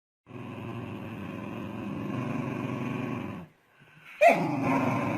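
A dog vocalizing across two cut-together clips: a steady, rough sound for about three seconds, then after a brief silence a sudden loud cry that falls in pitch and carries on.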